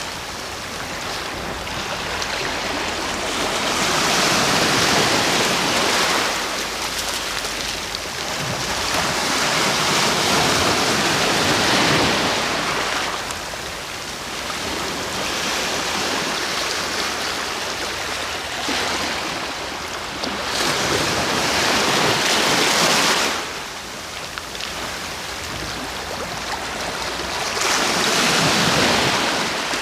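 Sea waves breaking and washing on the shore, swelling in slow surges every few seconds and falling back in between.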